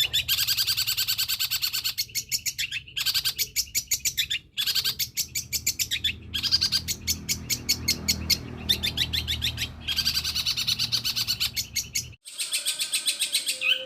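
Long-tailed shrike (cendet) singing a long, fast chattering song of rapid repeated high notes, about ten a second, in runs broken by short pauses, over a low steady hum. The song breaks off abruptly about twelve seconds in and a different passage of song begins.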